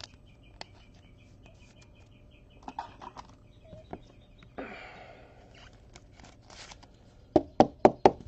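A bird chirping in a quick, evenly repeated series for the first three seconds, over scattered small clicks and a brief rustle. Near the end come four loud, sharp knocks in under a second.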